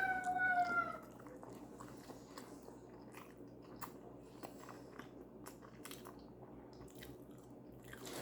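Close-miked chewing and biting of food, with small wet clicks from the mouth. It opens with a short, high voiced sound falling in pitch in the first second.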